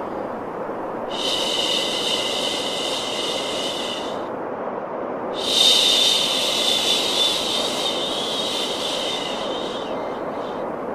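Baby-sleep white noise: a steady low rush with a higher hiss that comes and goes in long swells, twice, the second starting louder about five and a half seconds in.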